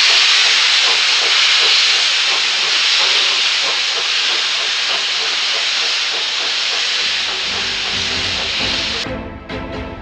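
Loud, steady hiss of steam venting, cutting off abruptly about nine seconds in as music with a regular beat starts.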